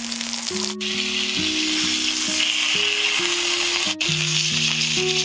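Thin slices of raw meat frying in hot oil in a wok, a steady, loud sizzle. Background music plays underneath.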